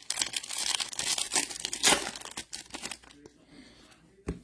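Foil trading-card pack wrappers crinkling and tearing as packs are opened, a dense run of crackles for about three seconds that then dies down to faint rustling.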